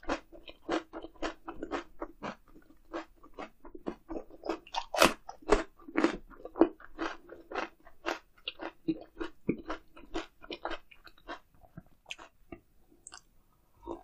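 Close-miked chewing of a mouthful of grilled eel, crunching about twice a second and slowing near the end.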